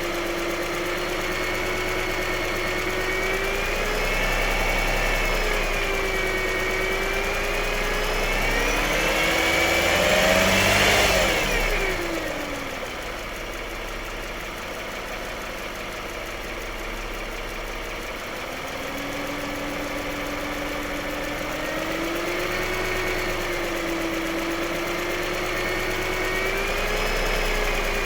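Lexus RX350's 3.5-litre V6 engine running with a steady whine, revved once: the pitch climbs to a peak about ten seconds in, then falls sharply back to a lower, quieter idle before rising a little again.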